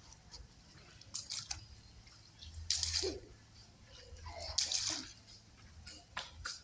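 Water splashing in about four short bursts, a child's feet in rain puddles.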